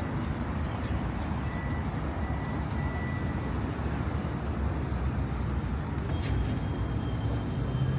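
Steady low rumble of vehicle traffic on a city street, with no single event standing out.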